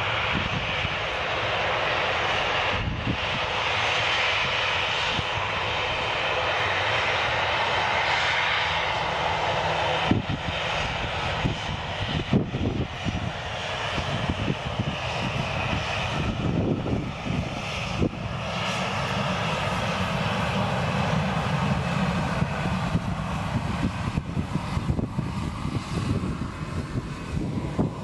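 Boeing 737-700's CFM56-7 turbofan jet engines running at takeoff power, a steady roar that turns from a higher hiss toward a lower rumble about halfway through. Wind bumps on the microphone now and then.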